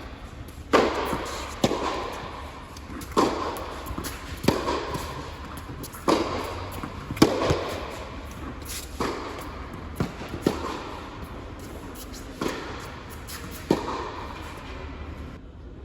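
Tennis rally: a ball is struck back and forth by racquets and bounces on the court, with a sharp pop about every second, some loud and close and others fainter.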